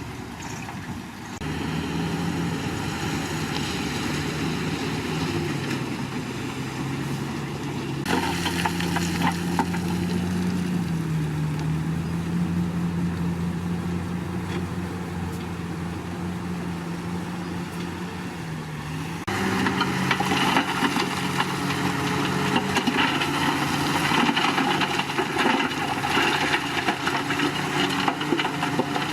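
Diesel engine of heavy earthmoving machinery running steadily, its pitch dipping and recovering now and then as it takes load. The sound changes abruptly a few times, as if jumping between separate takes.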